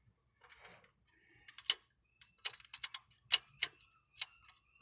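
Sharp metallic clicks and taps, about eight of them spread unevenly over a few seconds, as the carburetor's choke plate and linkage are worked by hand on a choke that won't close.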